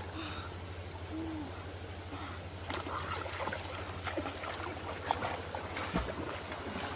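Two short, low hooting calls about a second apart near the start, over a steady low hum, followed by a few scattered light clicks and knocks.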